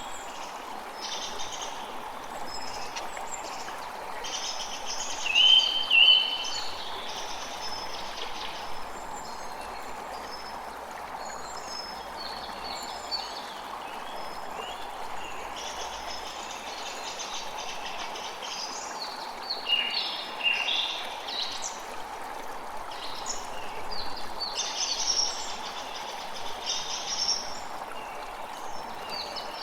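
A creek running steadily with many birds chirping and singing over it; the loudest calls come as a pair about six seconds in and as a cluster around twenty seconds in.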